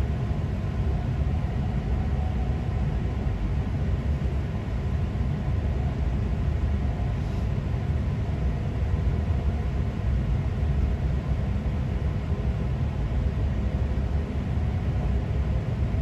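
Running noise heard inside an E6-series Shinkansen train under way: a steady low rumble.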